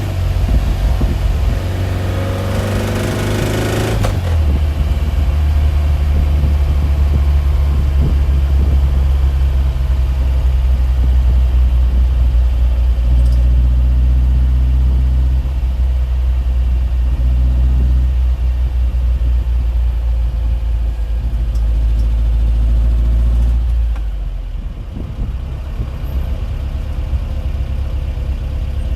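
Engine running with a steady low drone. Over the first four seconds a rising whine builds and then cuts off suddenly, and the drone drops in level a little after twenty seconds in.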